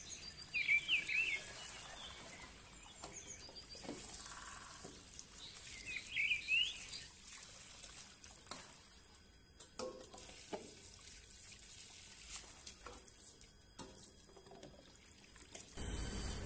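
A small bird chirping in two short bursts of quick notes, about a second in and again about six seconds in, with a few faint knocks in between. A low steady rumble starts just before the end.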